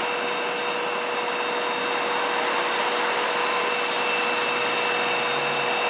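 Steady whooshing noise with a faint constant hum, like a fan blowing air, getting slightly louder about two seconds in.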